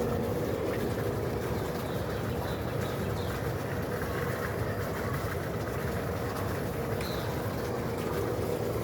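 A motor running steadily, with a low rumble and a constant hum.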